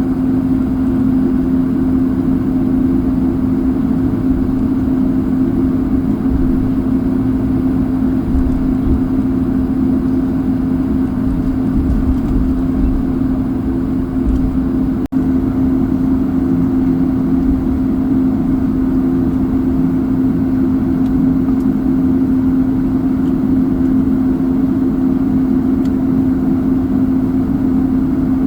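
Steady cabin noise inside an Airbus A220-300 taxiing after landing: its Pratt & Whitney geared turbofans at idle and the air conditioning make a continuous drone with a strong, steady low hum and a rumble beneath it.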